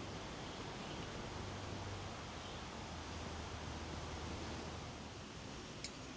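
Steady rushing noise with a faint low hum under it, and one sharp click just before the end.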